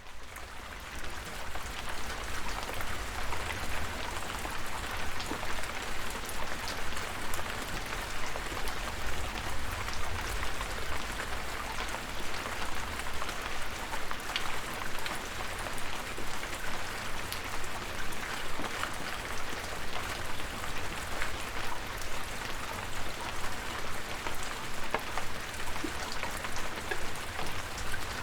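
Steady rain falling, a continuous hiss dotted with the ticks of individual drops, over a steady low rumble.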